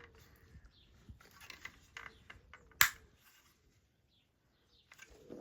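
Light clicks and rustles of small parts being handled, with one sharp click about three seconds in.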